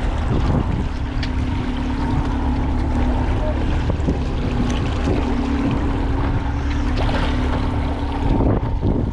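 Boat motor running steadily at trolling speed, with wind buffeting the microphone and water washing along the hull. A steady hum sets in about a second in and stops near the end.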